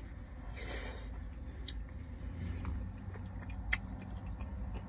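A person chewing and eating a mouthful of shredded beef stew, with small wet mouth clicks and one sharper click near the end, over a low steady hum.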